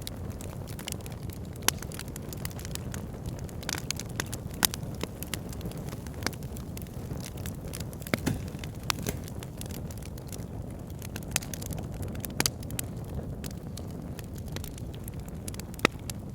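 Backyard fire pit burning: a steady low rush of flame with frequent, irregular crackles and pops, a handful of louder snaps scattered through.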